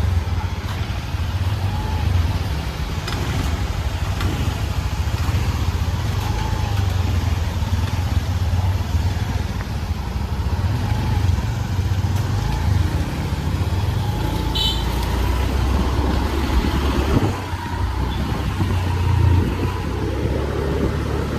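Motor vehicle running with a continuous low rumble and a faint wavering whine, and a brief high-pitched tone about fourteen and a half seconds in.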